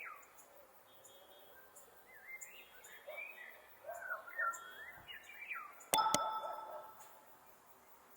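Faint chirping, bird-like calls with short rising and falling notes, then a single clink that rings briefly about six seconds in.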